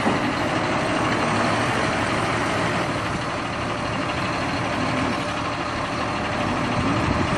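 A heavy vehicle's engine running steadily, an even, unbroken drone.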